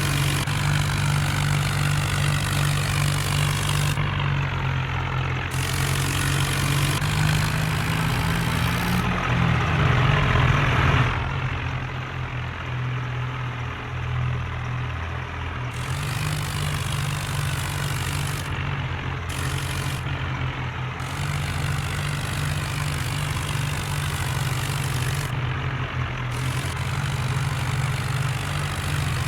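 Tractor engine running steadily, revving up and getting louder about nine seconds in, then dropping back about two seconds later.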